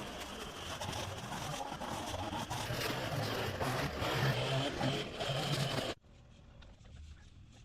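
Small gasoline engine of outdoor power equipment running steadily under a broad hiss, cutting off abruptly about six seconds in.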